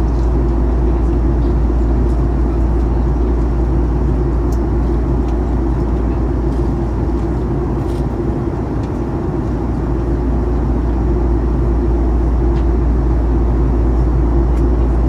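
Steady cabin drone of a Boeing 737-900ER on approach: a deep rumble of engines and airflow, with a few faint ticks from the cabin.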